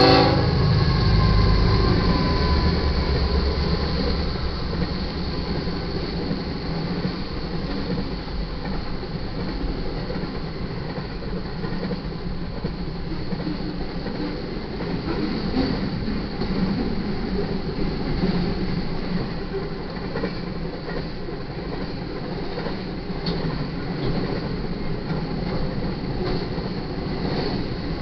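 A double-stack freight train passing, led by GE diesel locomotives. The horn dies away at the start while the locomotives' heavy low rumble is at its loudest. The long string of well cars then rolls by with a steady rumble of wheels on rail and occasional sharp clacks.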